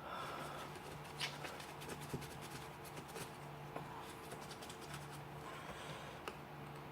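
Faint, irregular small clicks and light scrapes of a Leatherman Wingman multi-tool's metal parts being handled and worked apart, thickest in the first few seconds.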